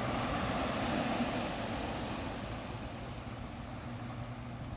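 An engine running steadily: a low hum under a broad rushing noise that eases off slightly.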